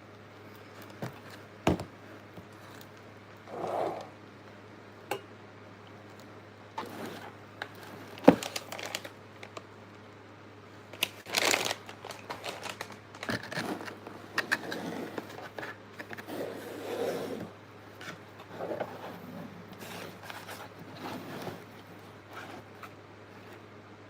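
Food packaging being handled: irregular crinkling and rustling, with scattered sharp clicks and taps. A steady low hum runs underneath.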